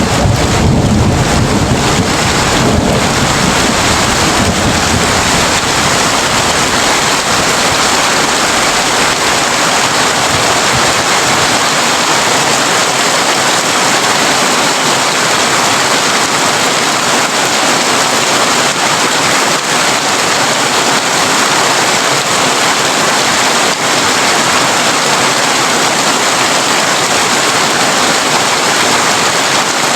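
Heavy rain drumming steadily on a corrugated tin roof. A low thunder rumble fades away over the first ten seconds or so.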